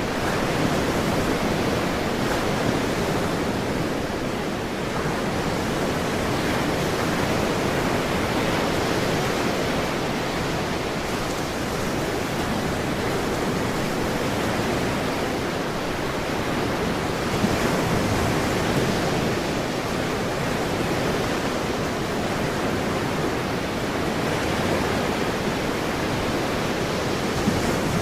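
Ocean waves breaking and washing on a shore in a continuous rush, swelling and easing slowly.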